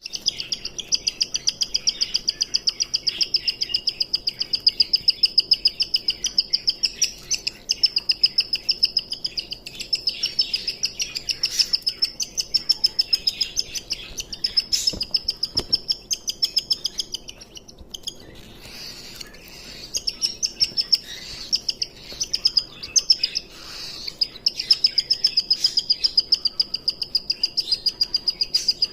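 Cockatiel chirping in a fast run of short, high calls, several a second, with a brief pause about two thirds of the way through.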